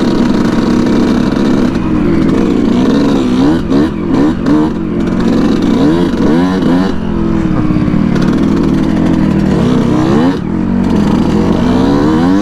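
2019 Yamaha YZ125 single-cylinder two-stroke engine, fitted with an FMF Turbinecore 2 silencer, revving hard under acceleration; its pitch climbs and drops back again and again as the rider works up through the gears.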